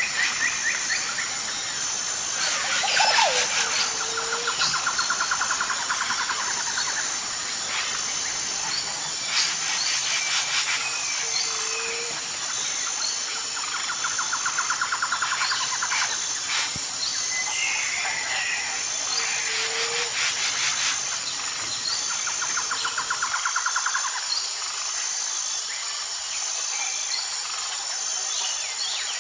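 Birds calling outdoors: a rapid low trill of about two seconds comes three times, with scattered short chirps between, over a steady high-pitched drone of insects.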